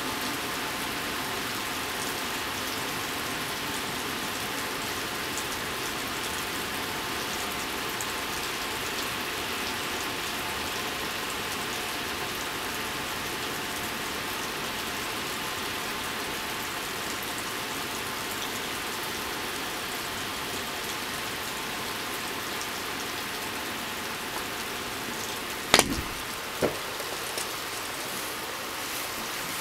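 Heavy rain pouring steadily, pattering on a wet ledge and the pavement below. Near the end come a sharp knock and then a softer one.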